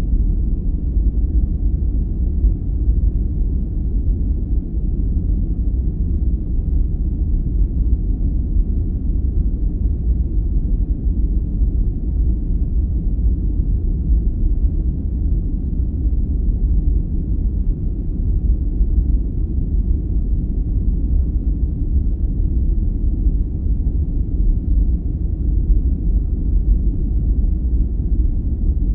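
Steady, deep rumbling noise played as a sleep aid: a dark, muffled hiss weighted to the low end, like brown noise, with no changes or events.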